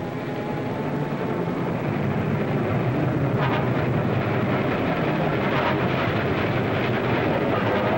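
Train running: a steady rumble with clatter.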